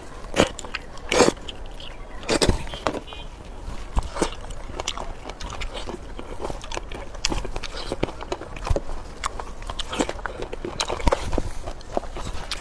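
Close-miked eating sounds: biting and chewing cooked seafood, with wet smacks and crunchy clicks. A few sharper crunches come in the first three seconds, then steady chewing.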